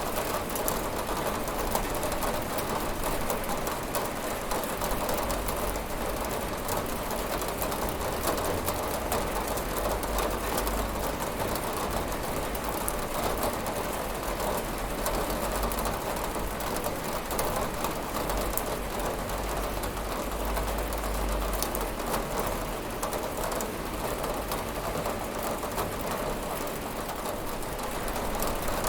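Steady rain falling on a window, a dense even patter of many small drop impacts with no thunder.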